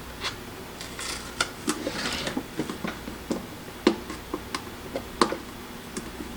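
Hamilton Beach 46205 coffee maker's plastic parts being handled during unpacking: scattered light clicks and knocks, with a couple of brief rustles near the first and second seconds.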